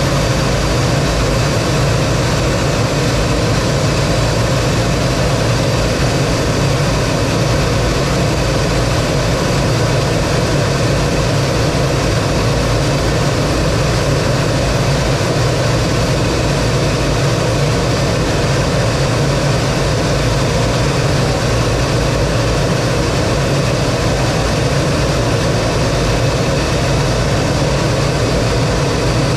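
Lockheed T-33 jet trainer's single turbojet engine running steadily, with rushing airflow, an even, unchanging noise with a low hum underneath.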